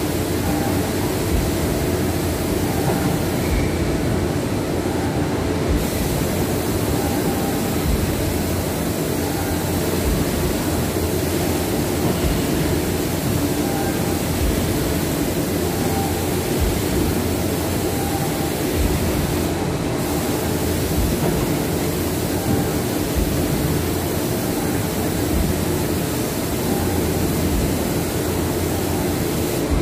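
A steady, loud mechanical running noise with a constant hiss on top. The hiss thins out briefly twice, about four seconds in and again near the twenty-second mark.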